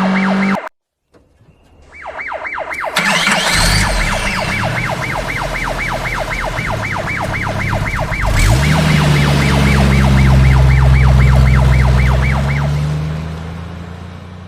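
Police siren on a fast yelp, rising and falling about four times a second. About halfway through, a vehicle engine revs up beneath it and runs loud. The siren stops near the end and the engine fades away.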